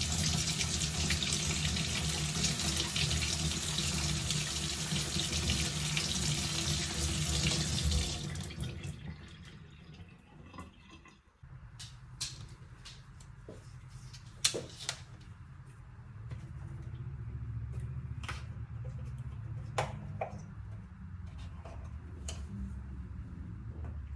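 Kitchen tap running into a sink for about eight seconds, then shut off. After that comes a low steady hum, with a few scattered clicks and knocks.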